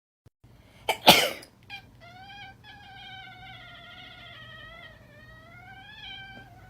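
Two short, loud noisy bursts about a second in, then a cat's long, drawn-out yowl lasting about four seconds, wavering in pitch and rising near the end.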